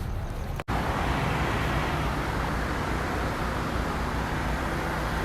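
Outdoor city street noise: a steady wash of traffic from passing cars, cut off for an instant just over half a second in.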